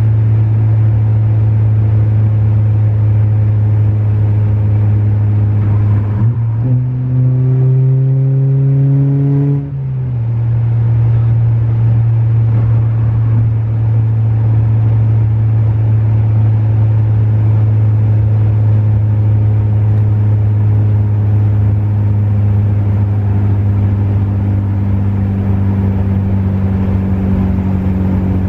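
Turbocharged four-cylinder engine of a 2018 Honda Accord 1.5T droning steadily at highway speed, heard inside the cabin over tyre and road noise. About six seconds in, the engine note climbs in pitch for some three seconds as the car pulls. It then falls back after a brief dip in loudness and settles into a steady drone again.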